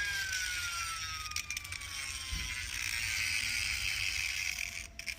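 3D-printed Tesla turbine's disc rotor whining as it spins down, the pitch falling steadily as it slows, over a hiss with a few light rattling clicks.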